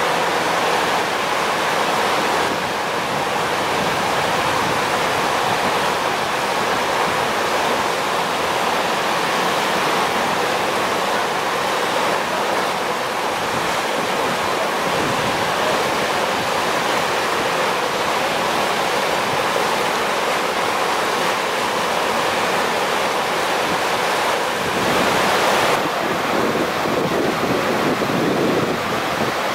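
Steady rushing of a river in typhoon flood, mixed with wind on the microphone, growing briefly louder near the end.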